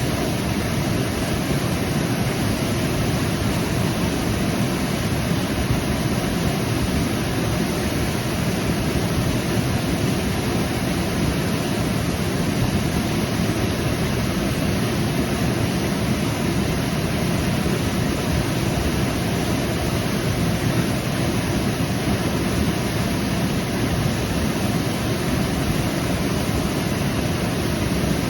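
Waterfall: water falling and rushing in a steady, unbroken roar, fullest in the low and middle range.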